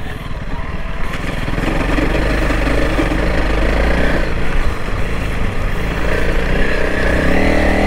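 2021 Honda CRF300L Rally's single-cylinder engine running steadily as the bike is ridden across soft, silty sand.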